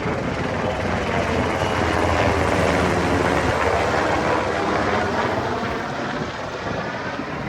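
Military helicopter from the naval base flying past. It grows louder to a peak about two to three seconds in, then slowly fades.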